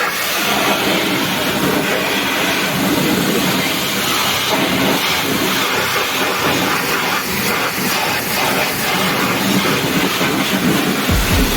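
Car-wash equipment hissing steadily and loudly: a continuous rushing spray or air noise with no clear pitch.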